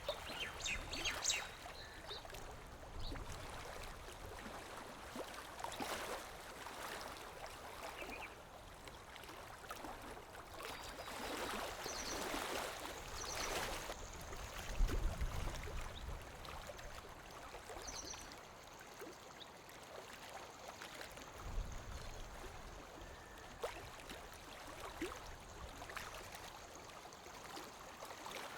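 Lake water lapping gently at the shore in irregular small splashes and swells, the biggest wash coming about halfway through.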